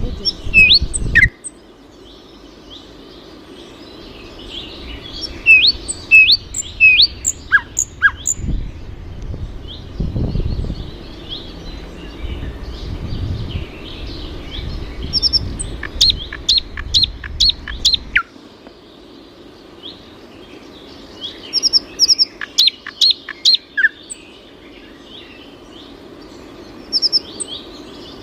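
Small birds chirping in bursts of short, high, quick downward-sweeping notes, with a low rumble underneath that stops about two-thirds of the way through.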